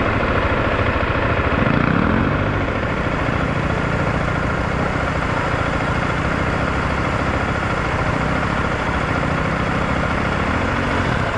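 Single-cylinder adventure motorcycle engine running under way, with heavy wind rush. The engine revs up about two seconds in and again near the end.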